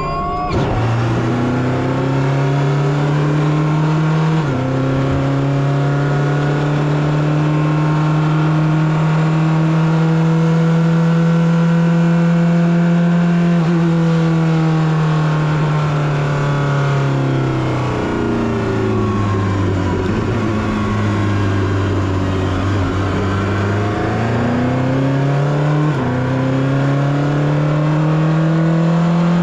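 Onboard sound of the Porsche 963 RSP's twin-turbo V8 hybrid prototype engine, driven at parade-lap pace rather than flat out. It upshifts about half a second in and again about four seconds in, then holds nearly steady revs for about ten seconds. The revs drop away on lifting off, then climb again, with another upshift near the end.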